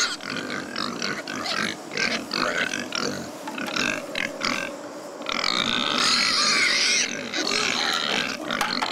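Pigs grunting in short, irregular bursts, with a louder, shriller stretch from about five to seven seconds in.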